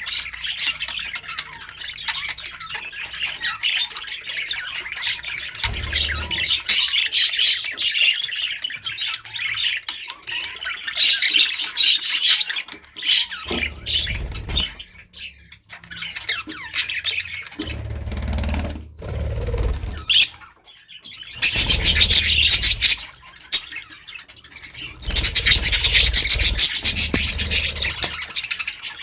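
Budgerigars chattering busily, a dense run of rapid chirps, warbles and squawks with a few short pauses. Low rumbles come and go underneath.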